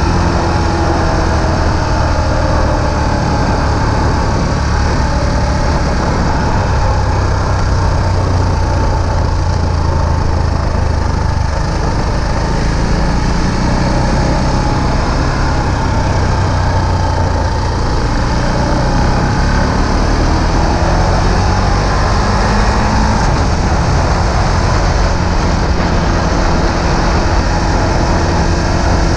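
Husqvarna Vitpilen 701's single-cylinder engine running under way, its note falling and rising as the throttle changes, mixed with steady wind and road rush on the camera microphone.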